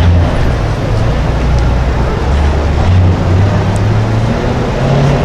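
A car engine running at low revs with a deep, loud note whose pitch steps up gradually over the few seconds, as if it is pulling away slowly.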